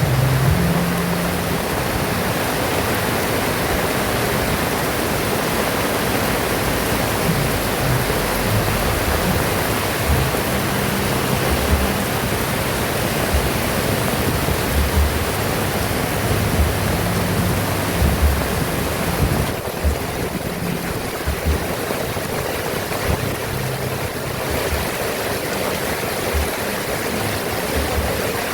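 Heavy rain pouring down as a dense, steady hiss, with short low thumps now and then.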